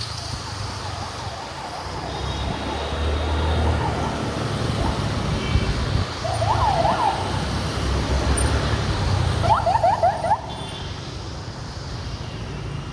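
Steady road and wind rumble of a motorbike riding through city traffic, with a short yelping siren, quick up-and-down wails, sounding twice, about six and nine and a half seconds in.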